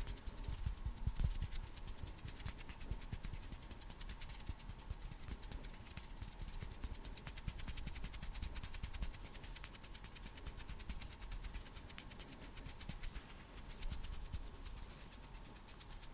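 ASMR hand sounds: bare hands rustling and brushing against each other close to the microphone, a continuous fine crackling skin-on-skin rustle, with a few soft low bumps about a second in.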